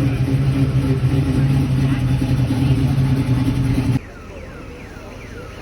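A car engine running at a steady speed, a constant low hum, that cuts off abruptly about four seconds in. It gives way to quieter background with a series of short, high, falling chirps.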